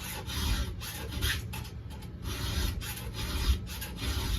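A 7/32 round file rasping across the cutters of a semi-chisel chainsaw chain in steady, even strokes, about two to three a second.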